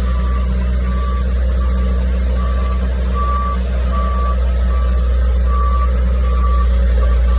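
Vehicle reversing alarm beeping steadily, one single-pitched beep about every 0.8 seconds, over a steady low engine rumble.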